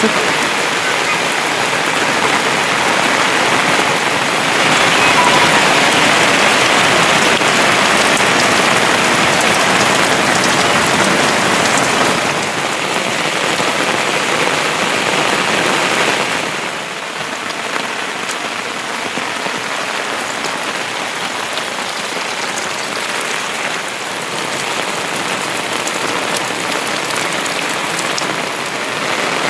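Heavy monsoon rain falling steadily, a dense loud hiss that eases slightly a little past halfway.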